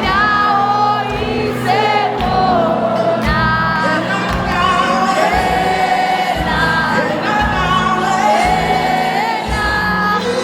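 Live gospel worship music: a choir singing sustained, gliding melodic lines over a band with steady bass and drums.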